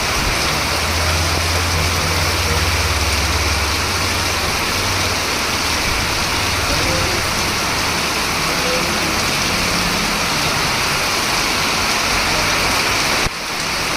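Heavy rain falling steadily in a dense, even hiss. A low engine rumble runs under it for a few seconds near the start. The sound drops out briefly near the end.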